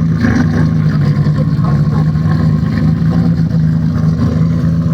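Car engine running with a steady low drone, its pitch held level throughout.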